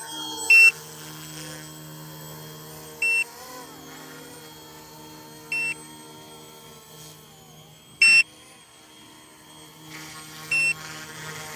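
Yu Xiang F07 RC Huey helicopter hovering, its small electric motor and rotor giving a steady hum. A short high beep sounds five times, about every two and a half seconds.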